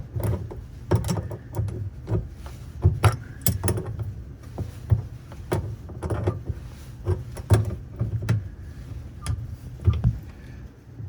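Irregular metal clicks and knocks, about one or two a second, from a wrench working on a Pfister utility-sink faucet as the stem is tightened back in, over a steady low hum.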